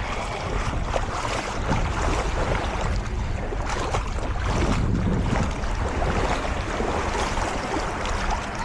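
Wind buffeting the microphone with a low rumble, over the wash of surf on the beach.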